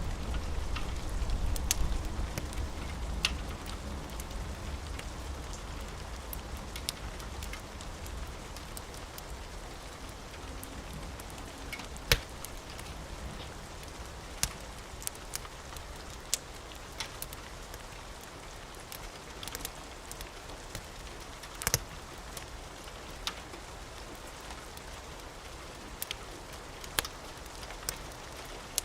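Steady rain with a wood fire crackling: sharp, irregular pops scattered through the hiss. A low thunder rumble dies away over the first few seconds.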